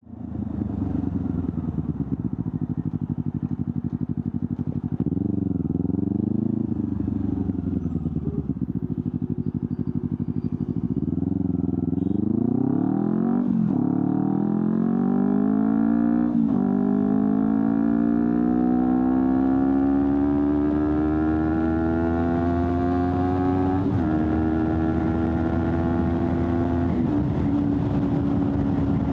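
Honda CBR250RR parallel-twin engine breathing through an Akrapovic slip-on exhaust, running at low revs with small wobbles in pitch for the first ten seconds or so. It then accelerates: the revs climb steadily and fall sharply at each of several upshifts, about two thirds of the way through the climb holding one long pull before the last shifts.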